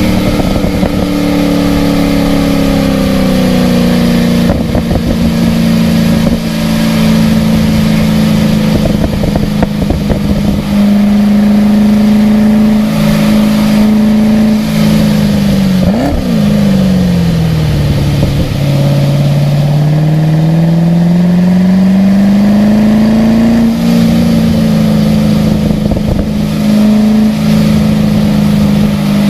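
Car engine running hard on a race track. Its pitch holds, jumps in a quick rev blip about sixteen seconds in, drops over the next couple of seconds as the car slows, then climbs steadily as it accelerates again.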